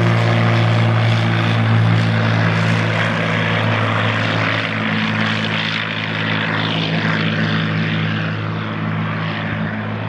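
Propeller airplane's engine and propeller running with a steady, loud drone, easing off slightly over the last few seconds.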